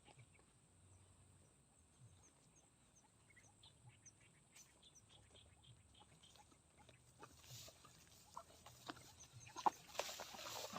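Faint outdoor ambience with scattered small chirps and ticks, then louder rustling and sharp clicks over the last few seconds.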